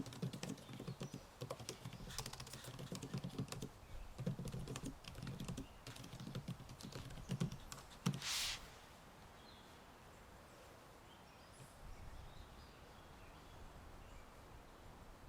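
Typing on a computer keyboard, a quick run of key clicks for about eight seconds, ending in a short swish; then the typing stops, leaving a quiet background with a few faint high chirps from birds.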